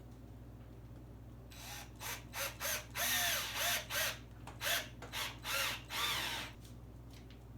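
Power drill driving screws into a wooden board, run in about ten short bursts, its motor whine rising and falling with each squeeze of the trigger.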